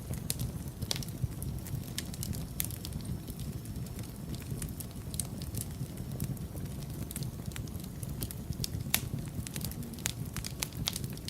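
Wood fire burning in a fireplace: a steady low rumble of flames with irregular sharp crackles and pops, one louder pop about nine seconds in.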